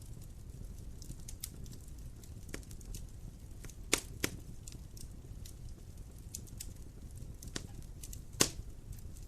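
Wood fire burning in a fireplace: a steady low rush of flames with irregular crackles and pops, three sharper pops standing out about four seconds in, just after, and near the end.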